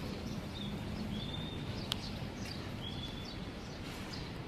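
A bird repeating short whistled calls over a steady background hum, with one sharp click about two seconds in.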